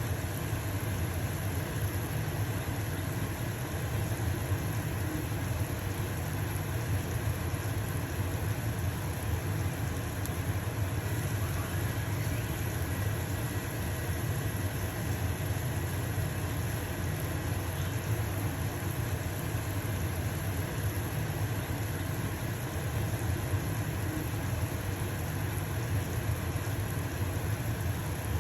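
Stove-top range hood fan running with a steady hum, under the hiss of a pancake sizzling in a frying pan.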